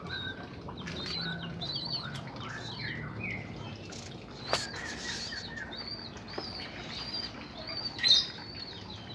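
Birds chirping over and over in short, high notes. There is a sharp click about halfway through and a louder sudden sound, like a brief flutter or knock, near the end.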